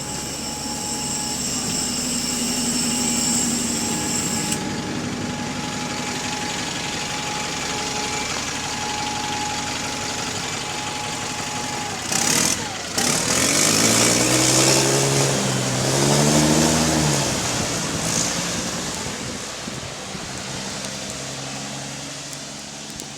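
Diesel double-decker bus engine running with a loud exhaust leak, heard from outside the bus. About halfway a brief burst of noise, then the engine note rises and falls as it revs and grows louder for a few seconds before easing off.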